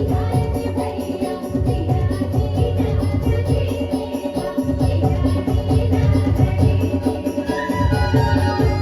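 Chhattisgarhi jawara folk song music: drums keep a steady beat under a held melody line.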